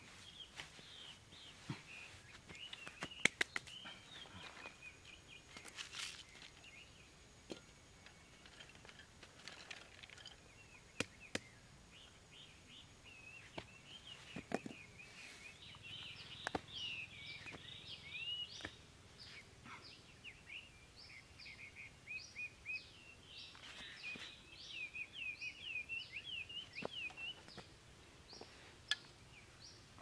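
Small birds chirping in quick, repeated high calls, busier in spells around the middle and toward the end, with a few sharp taps and clicks as bamboo sticks and a plastic basket are handled.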